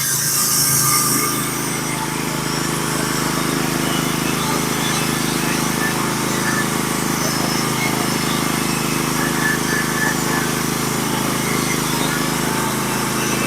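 Norwood HD36v2 portable bandsaw mill running steadily at full throttle, its engine holding a constant drone while the band blade cuts along a scarlet oak log. A brief high hiss comes right at the start.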